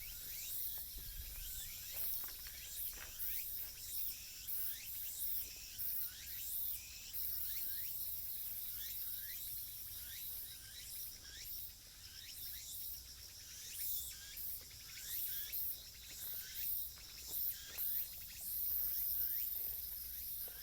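Outdoor insect chorus: a steady high-pitched buzzing with a pulsing texture, and many short falling chirps coming and going over it.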